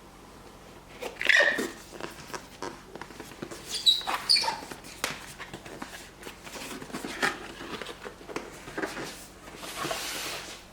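Packaging being handled during an unboxing: irregular taps, clicks and rustles, a few short squeaks, and a longer sliding rustle near the end.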